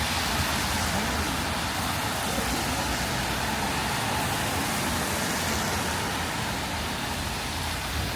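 Steady wet-street ambience: road traffic with rain falling on the pavement.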